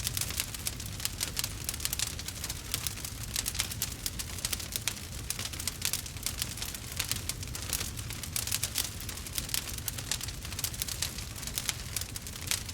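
Burning wood crackling and popping in a steady stream of rapid crackles, over a low steady rumble.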